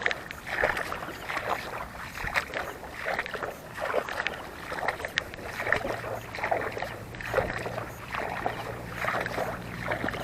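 Water swishing and sloshing in a steady rhythm of strokes, about one every 0.7 seconds, as someone moves through shallow water between fish and shrimp traps. A steady low hum comes in about halfway through.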